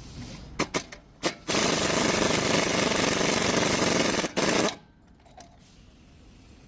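Impact wrench: three short blips, then a long rattling run of nearly three seconds and one more brief burst.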